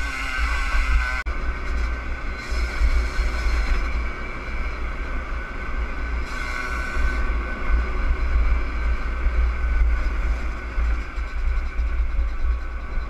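Yamaha DT50R's 50 cc two-stroke single-cylinder engine running steadily at riding speed, with heavy wind rumble on the microphone. The sound breaks off abruptly and resumes about a second in.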